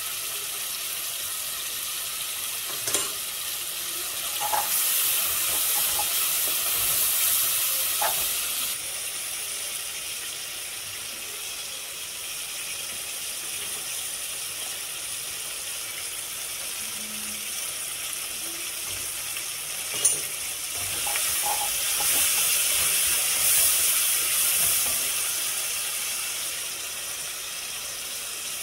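Chopped tomatoes and onions sizzling in hot oil in a metal pot, a steady high hiss that swells twice as the mixture is stirred with a wooden spoon. Two sharp knocks come through, one a few seconds in and one about two-thirds of the way through.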